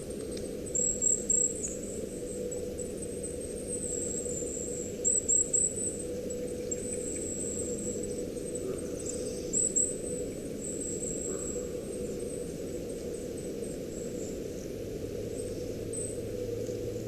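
Thin, high-pitched squealing that wavers on and off throughout, louder in short bursts about a second in, around five seconds and near ten seconds, over a steady low hum.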